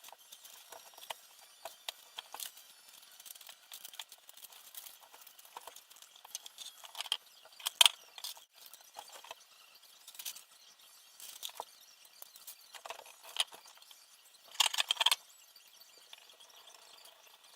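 Irregular small clicks, taps and short rattles of small parts and tools being handled during assembly, with a louder clatter about eight seconds in and a brief burst of rattling near the end.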